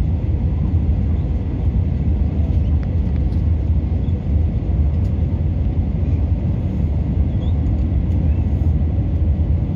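Steady low rumble of an Airbus A320neo airliner's engines and airflow, heard from inside the passenger cabin in flight, with a faint steady hum above it.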